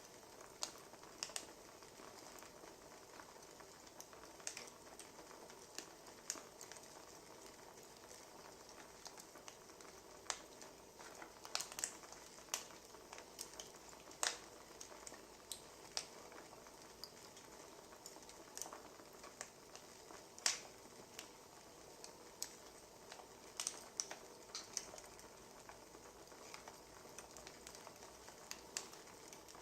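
Wood fire crackling: a faint steady hiss with irregular sharp pops and snaps, the loudest about two thirds of the way in.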